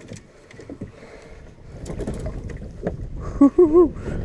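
Wind rumbling on the microphone, with a few scattered knocks. About three and a half seconds in, a man lets out a short, loud, wavering cry.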